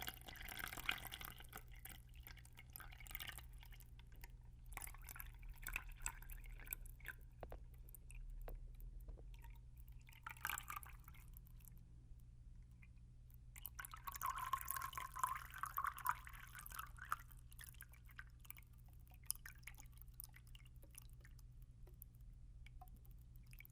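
Water poured into a cup close to the microphone in several short spells, with drips and trickles in between.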